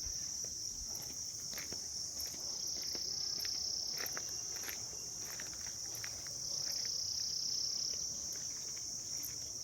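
Insect chorus in the hills: a continuous, steady, high-pitched shrill drone, with a few faint clicks.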